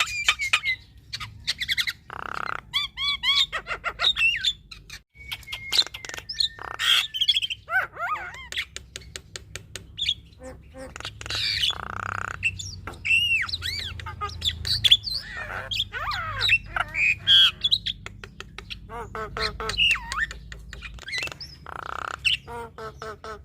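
Female Javan myna singing a long, varied song: harsh squawks and chatter mixed with whistled glides and rapid runs of clicks.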